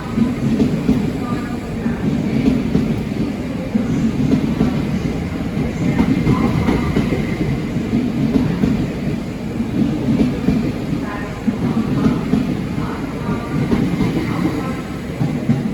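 A train running past with a steady low rumble that swells and eases.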